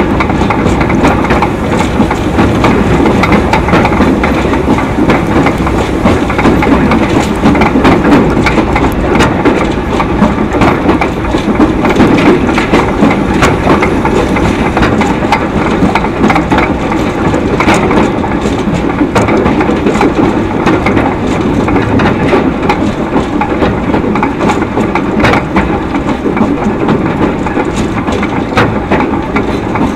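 A 2 ft narrow gauge train running along the line: a steady rumble of wheels on rail with frequent irregular clicks and rattles.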